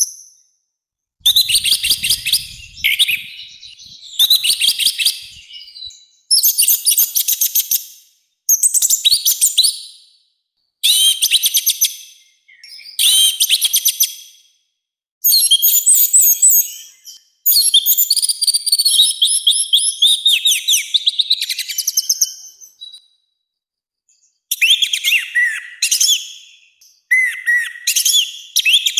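Orange-headed thrush (anis merah) singing loud, full-voiced song in about ten rapid, twittering phrases of one to two seconds each, with short pauses between them. The phrase near the middle runs longer.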